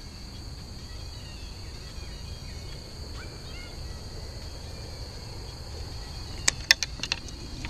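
Outdoor pond-side ambience: a steady, high insect drone over a low rumble, with a few short bird chirps in the middle and several sharp clicks about a second before the end.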